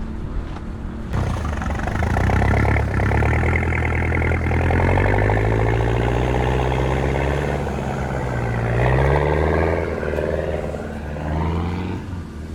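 Rally car engine revving hard under acceleration, coming in about a second in with its pitch climbing, dropping briefly near eight seconds in, then climbing again.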